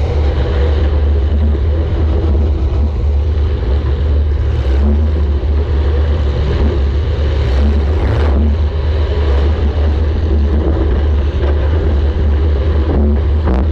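Demolition derby compact car's engine running hard, heard from onboard as a steady heavy low rumble, with a couple of sharp knocks about eight seconds in and again near the end.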